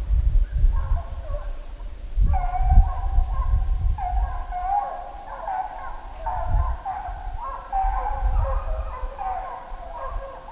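A pack of deer hounds baying on a running deer's trail, several voices overlapping in drawn-out calls that grow fuller and louder about two seconds in, over a low rumble.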